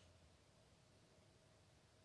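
Near silence: a faint low hum with a faint steady tone.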